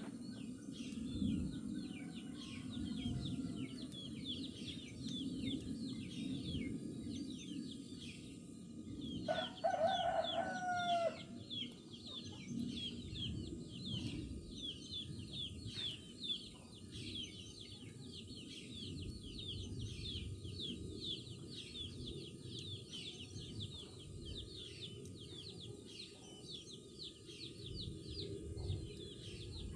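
A rooster crowing once, a call of about two seconds that starts about a third of the way in, over a dense, continuous chorus of high, quick bird chirps and a low background murmur.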